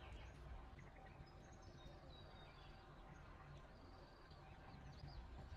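Near silence: faint outdoor ambience with a few faint, high bird calls about a second in and again later.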